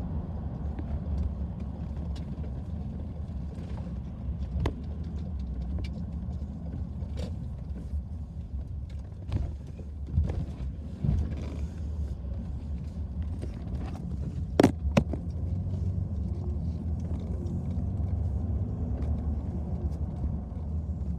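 Car on the move: steady low rumble of engine and road noise, with scattered clicks and knocks and two sharp knocks close together about two-thirds of the way through.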